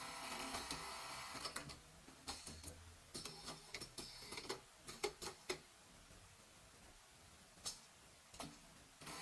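JACK 2210PB automatic pattern sewing machine running: a steady machine hum, broken in the middle by a run of sharp mechanical clicks as the clamp and feed work, then quieter before the hum starts again near the end.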